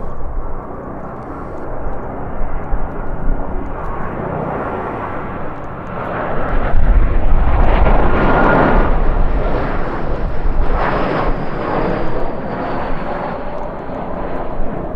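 Jet airliner passing by: its engine noise swells about six seconds in, is loudest around eight seconds, then eases off while a high engine whine slides slowly down in pitch. Low rumble from gusting wind on the microphone runs under it.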